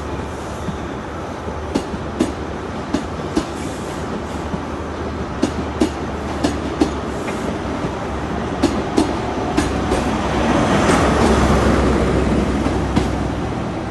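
Class 43 HST diesel power car pulling out, its engine a steady low drone, with sharp clicks as the wheels run over rail joints. The sound swells louder about ten seconds in, then eases near the end.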